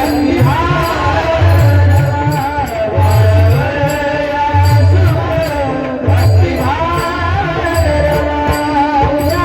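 Marathi devotional kirtan music: a woman's voice sings long gliding melodic phrases without words. A drum and small hand cymbals keep a steady beat underneath.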